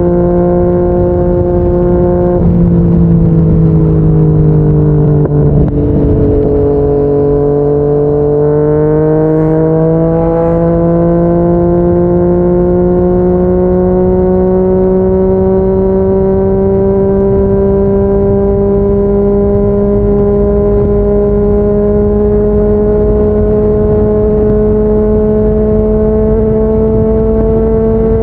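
Yamaha MT-09's inline three-cylinder engine through a Yoshimura R55 slip-on exhaust, running at road speed. The revs ease off for a few seconds, there is a brief dip about six seconds in, and then the engine note climbs slowly and steadily as the bike accelerates.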